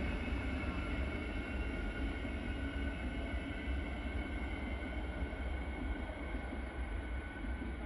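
Siemens electric suburban train running along the platform with a steady rumble and a steady high whine, slowly getting quieter.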